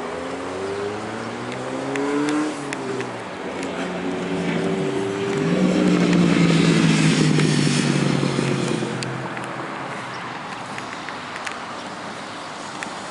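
A motor vehicle drives past, its engine note climbing in steps as it accelerates through the gears. It is loudest about six to nine seconds in, then fades away.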